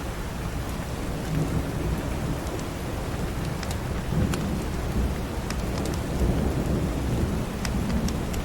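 Steady rain with thunder rumbling low, swelling from about a second in, and scattered sharp crackles from a wood fire in a fireplace.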